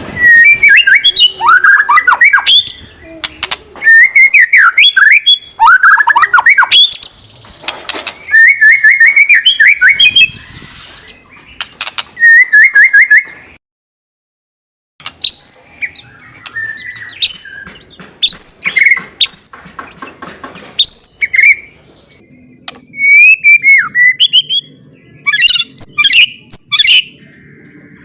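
White-rumped shama (murai batu) giving its kretekan, a loud, fast, chattering run of short notes mixed with sweeping whistles. This is the agitated call used to rouse rival males. It stops for about a second and a half near the middle, then resumes.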